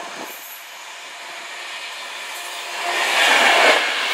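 Virgin Pendolino electric express train approaching at speed and passing close by: a rising rush of wheel and air noise that swells sharply about three seconds in.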